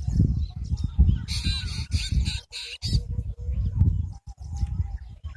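Birds giving short, harsh, repeated calls, most dense from about a second in to about three seconds, over a constant low rumble.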